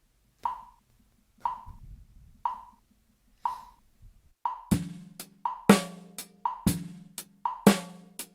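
Metronome clicking alone at 60 BPM, once a second. About halfway through, a drum kit comes in with a simple beat, and each click now lands just before a drum stroke: the click heard as the fourth sixteenth note before each beat.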